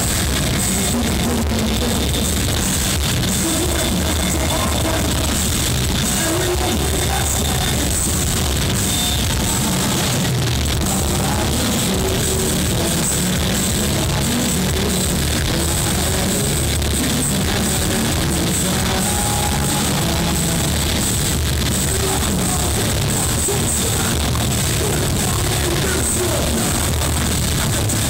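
Heavy metal band playing live, loud and distorted: guitars and fast drumming, as recorded from the crowd.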